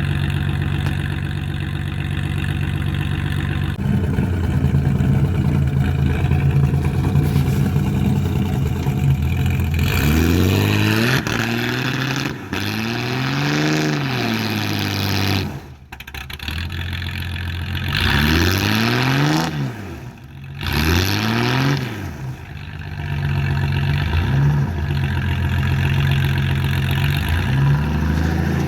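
Toyota Hilux's carburetted engine idling steadily, then revved up and down several times as it crawls over rough ground, with two brief dips in sound partway through.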